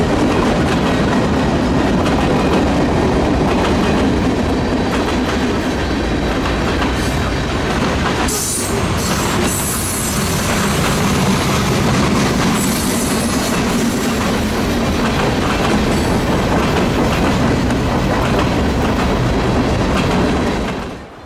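Freight cars of a passing train rolling by at speed, wheels clattering over the rail joints with some wheel squeal. The sound cuts off suddenly near the end.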